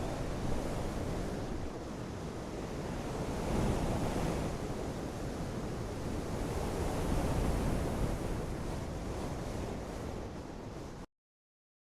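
Outdoor nature ambience: a rushing noise that swells and eases every few seconds, like wind or moving water, with no birdsong standing out. It cuts off abruptly near the end.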